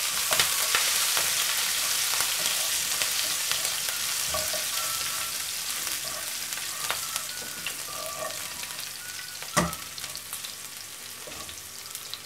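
Chopped green chillies, ginger and curry leaves sizzling in hot oil in a nonstick kadai, stirred and scraped with a wooden spatula; the sizzle slowly fades. A single sharp knock about ten seconds in.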